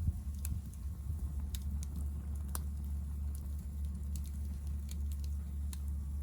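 Hardwood fire crackling in a Picogrill fire pit, with sparse sharp pops about one every half second, the clearest about two and a half seconds in. Under it runs a steady low rumble.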